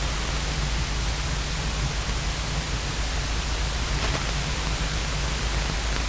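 Light aircraft cockpit noise heard through the headset and radio audio feed: a steady hiss with a low, even engine drone underneath.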